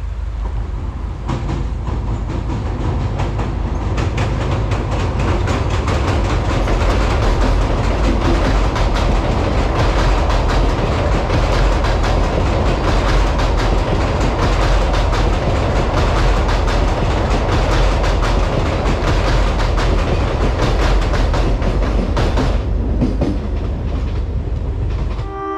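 Local passenger train crossing a steel girder bridge: a continuous heavy rumble under a dense clatter of wheels over the rail joints. It eases off a couple of seconds before the end.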